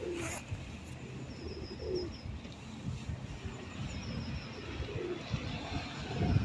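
Feral pigeons cooing a few times, low and short, over a steady low rumble of traffic. Twice, a brief run of high-pitched pulsed chirps joins in.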